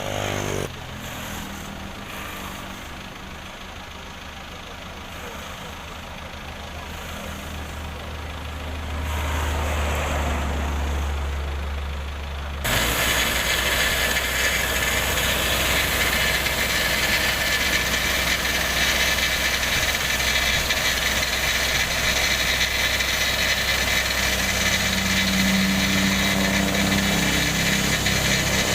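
Heavy road-construction machinery engines running. A low steady engine hum swells, then about halfway through gives way abruptly to a louder, hissier engine sound with a deep hum underneath.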